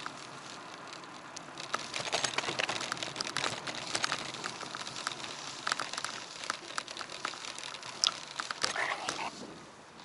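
Irregular crackling and clicking picked up by an action camera on a moving bicycle: road noise and rattles from the ride, easing a little near the end.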